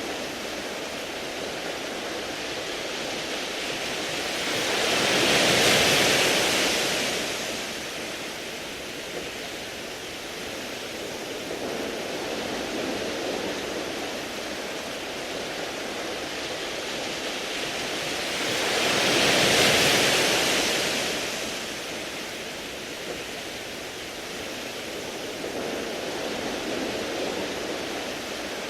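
Waves washing in on a beach of round pebbles: a steady surf hiss with two larger waves swelling and falling away, about fourteen seconds apart.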